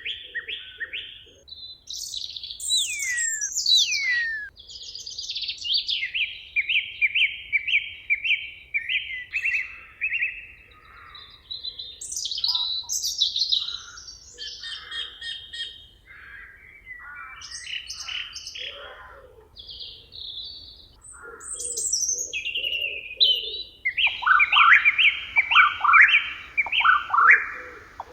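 Several birds singing together in a forest: rapid series of repeated chirps and trills, a couple of falling whistles a few seconds in, and lower repeated notes later. A loud run of fast repeated notes comes in near the end.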